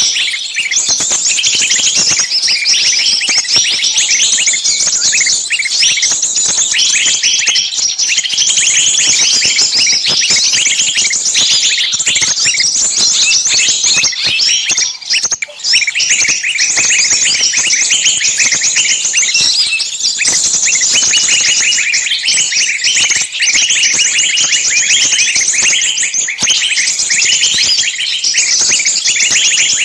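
Dense chirping of many small birds at once, a fast unbroken chatter of high, short calls with a brief lull about halfway through.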